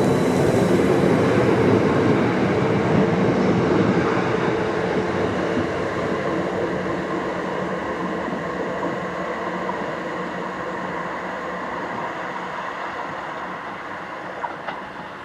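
An electric multiple-unit train running and moving away, its sound fading steadily. A brief click comes near the end.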